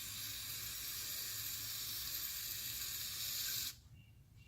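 Aerosol can of mass air flow sensor cleaner spraying in a steady hiss, which stops suddenly near the end.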